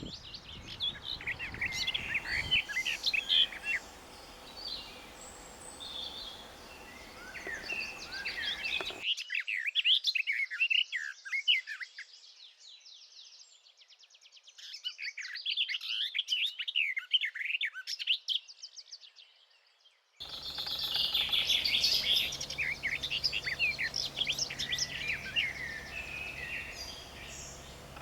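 Several songbirds singing: dense, fast chirps and trills overlapping each other. The recording changes abruptly about a third of the way in and again about two-thirds in, and the middle stretch has no background rumble behind the song.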